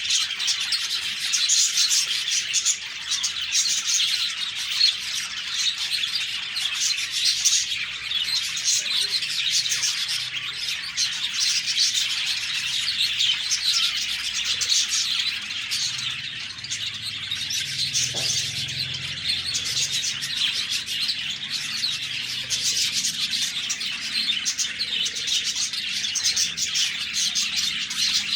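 A flock of budgerigars chirping and warbling continuously, many birds overlapping in a dense, high-pitched chatter.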